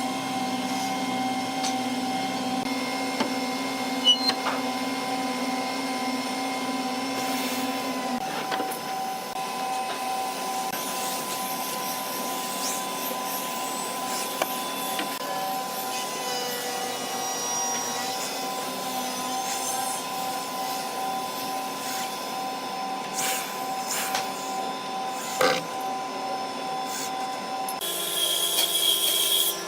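An electric power tool's motor running steadily with a constant whine. Its pitch pattern shifts about a third of the way in and again near the end, and a few sharp knocks sound over it.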